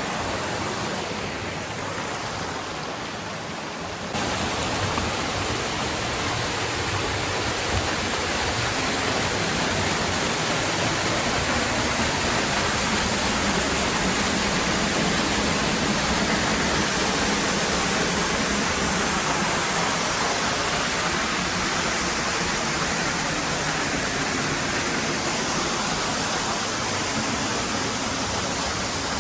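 Waterfall's steady rush of falling water, a dense even hiss with no breaks. It gets louder about four seconds in.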